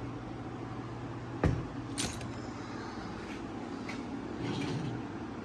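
Heavy tool bag set down onto a refrigerant scale: a single dull thump about a second and a half in, then a sharp click, over a steady low hum.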